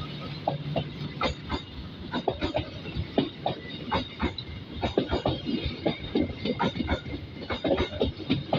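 Train passing close, its wheels clattering over the rail joints in a quick, uneven run of sharp knocks over a steady rolling rumble.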